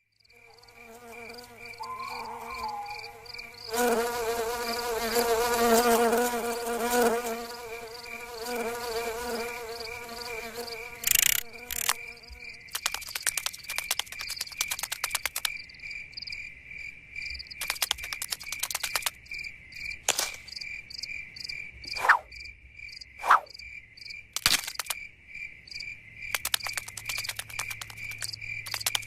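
Cartoon insect sound effects: a steady, rapid cricket-like chirping throughout, with a wavering pitched buzz of insect wings over the first twelve seconds or so. After that come scattered clicks and, near the end, two short swooping tones.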